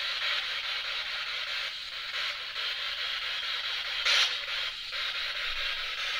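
A ghost-hunting spirit box sweeping through radio frequencies: a steady radio hiss ("Rauschen") from its small speaker, broken up by the scan, with one louder blip about four seconds in.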